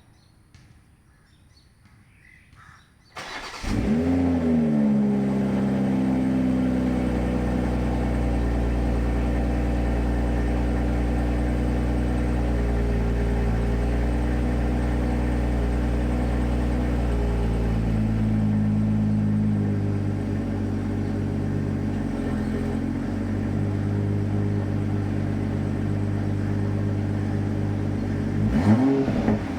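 BMW M340i's 3.0-litre turbocharged inline-six cold-started about three seconds in: starter, a quick rev flare on catching, then a steady fast cold idle that settles a little lower about two-thirds through. Near the end the engine is blipped twice.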